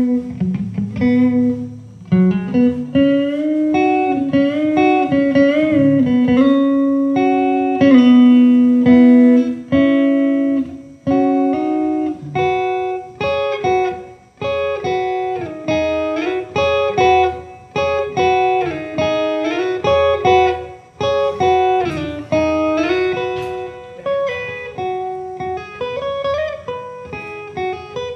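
Guitar playing a slow melody, with held notes that bend and waver in pitch over a lower accompaniment.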